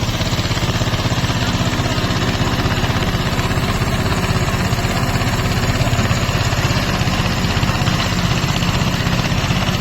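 Eicher tractor's diesel engine running steadily, with an even, rapid firing beat.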